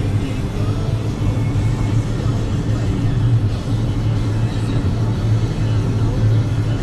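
Steady low drone of a vehicle's engine heard from inside it, with a pulsing low hum.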